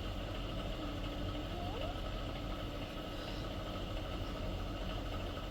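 A steady low machine hum that holds at one level throughout.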